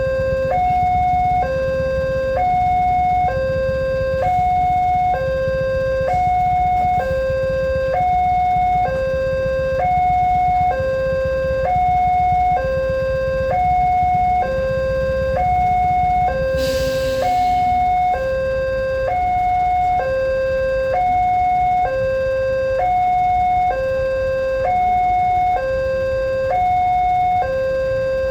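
Railway level-crossing warning signal sounding a steady two-tone electronic alarm, switching between a lower and a higher tone a little under once a second. A low rumble runs underneath, and there is a short hiss about 17 seconds in.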